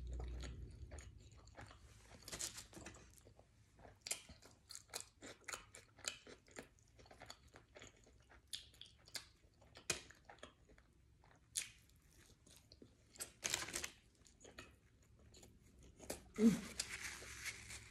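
Close-miked chewing of a sub sandwich and crunchy hot fries, with many short crisp crunches between softer wet chewing. There is one brief louder sound near the end.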